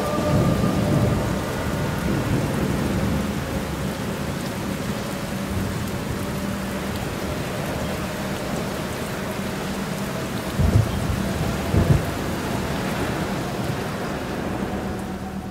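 Steady rain of a thunderstorm with low thunder rumbling, loudest in the first second or so, and two short low thumps about a second apart a little after halfway.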